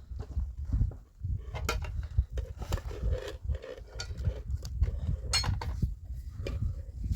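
Irregular light knocks and clatter over a continuous low rumble.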